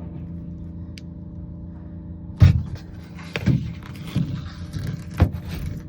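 A steady mechanical hum runs throughout, with a handful of sharp knocks and rattles in the second half, the loudest about two and a half seconds in.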